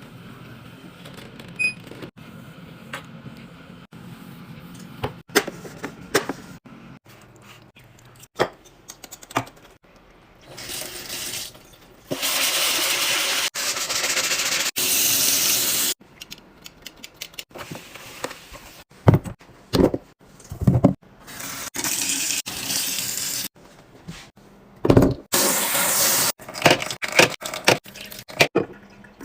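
Water running from a tap in a few separate runs, the longest lasting about four seconds a little under halfway through, with light clicks and knocks of containers being handled between them.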